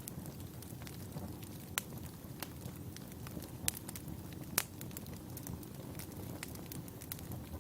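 Wood campfire burning: a steady low rumble with scattered sharp crackles and pops, the loudest about halfway through.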